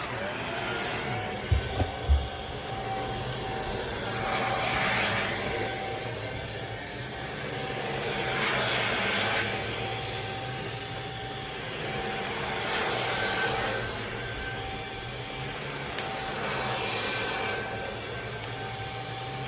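Handheld bed vacuum cleaner switching on and running steadily with a high whine. Its rushing air swells and eases about every four seconds as it is pushed back and forth over a mattress. Two short knocks come about one and a half and two seconds in.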